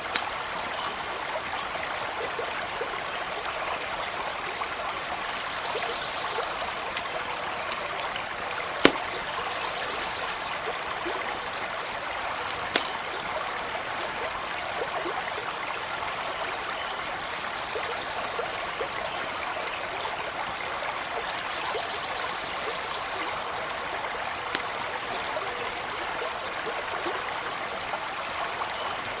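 A small brook running steadily, with scattered sharp pops and crackles from a campfire, the two loudest about 9 and 13 seconds in.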